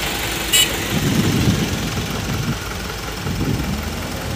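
Heavy diesel construction machine engine running steadily, its low rumble swelling briefly a couple of times. A short high-pitched squeal sounds about half a second in.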